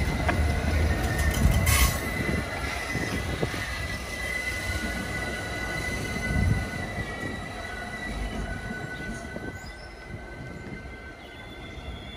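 Train on the rails with its steel wheels squealing in steady high tones over a low rumble; the sound slowly fades as the train draws away.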